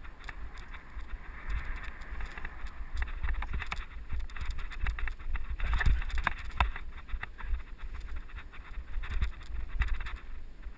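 Mountain bike rolling over a dirt trail, heard through a helmet camera's microphone: wind buffeting the mic, with frequent clicks and rattles from the bike and tyres on the ground.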